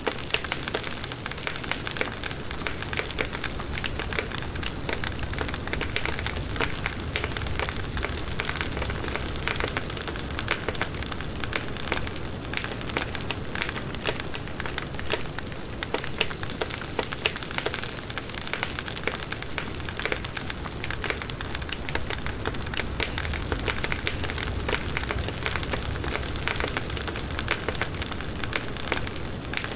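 Firewood burning in a campfire: a steady, dense crackling with many small irregular pops and a low rumble of the flames.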